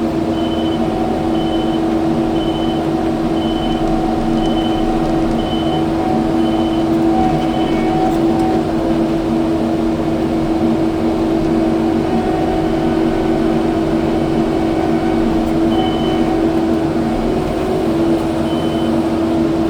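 Kubota skid steer's diesel engine running steadily under work. Its reversing alarm beeps about once a second for the first several seconds while the machine backs up, then twice more near the end.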